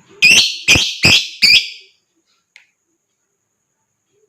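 Lovebird giving four loud, sharp calls in quick succession, about two a second, then falling silent.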